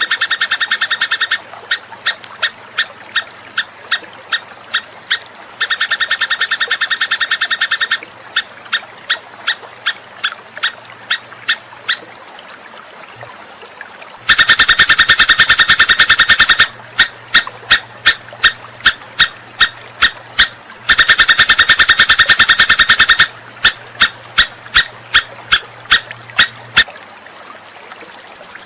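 Recorded songbird masteran track: a bird's dense buzzing trill of about two seconds, then a string of separate short notes at about two and a half a second, the phrase repeating over and over and louder in the second half. Near the end a different, higher-pitched call begins.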